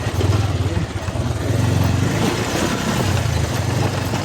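Motorcycle engine running steadily while riding, with a low, even pulsing and a rush of wind and road noise.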